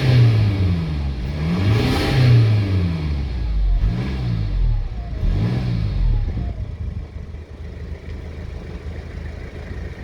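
Mercedes-Benz C220d four-cylinder turbodiesel revved three times, each rev rising and falling back and smaller than the one before. It then settles into a steady idle for the last few seconds.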